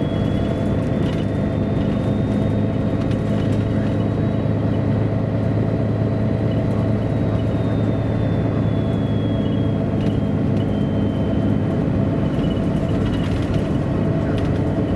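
On board a 1999 MAN A23 NG313 articulated diesel city bus under way: a steady engine drone with a faint high whine that rises slightly and then falls, and a few light rattles.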